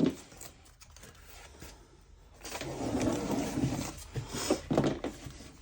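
Scraping and rubbing on wood, lasting a couple of seconds and starting about halfway in after a quiet start.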